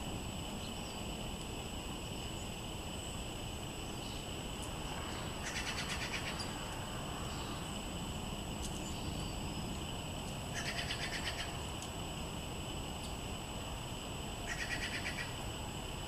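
A small bird's rapid, dry trill, each lasting about a second, heard three times a few seconds apart.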